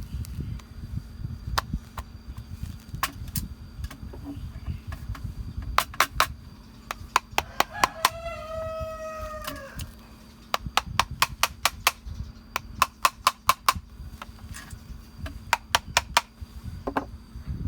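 Runs of quick, sharp taps or knocks, several a second in bursts, over a steady low hum. A rooster crows once about eight seconds in, one long call that drops in pitch at the end.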